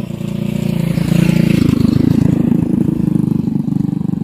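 Vehicle engine running close by, its sound swelling about a second in and holding strong.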